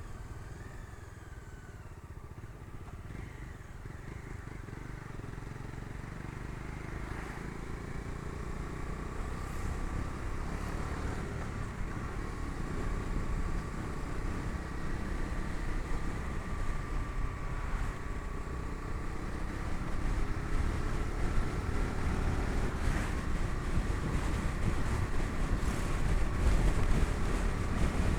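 Bajaj Dominar 250's single-cylinder engine running while the motorcycle is ridden, mixed with wind and road rumble, growing gradually louder as it goes.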